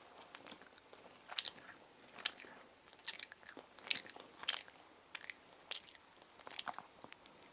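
A child chewing a soft sandwich filled with cheese, sausage and egg: irregular short mouth clicks and smacks, about one or two a second.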